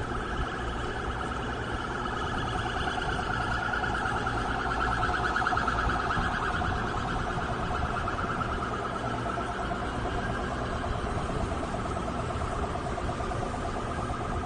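Emergency vehicle siren with a fast warble, growing louder toward the middle and then easing off a little, over a steady low rumble of traffic and wind.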